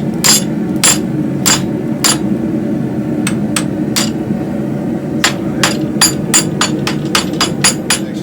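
Rounding hammer striking a hot railroad spike on an anvil: about twenty ringing metal blows, a few spaced strikes at first, then a quicker run of about four a second in the second half, over a steady low roar.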